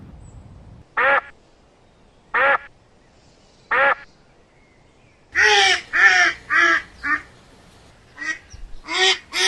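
A bird calling harshly: three single calls about a second and a half apart, then a quicker, louder run of calls in the second half.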